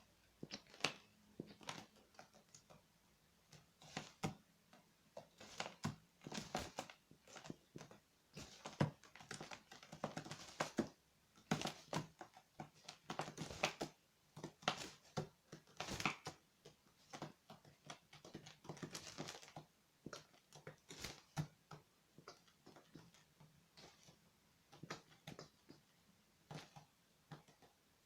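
Irregular sharp taps and short rustling scuffles: a magpie pecking at and tugging its tarantula prey on a hard surface, with hopping and flapping between strikes.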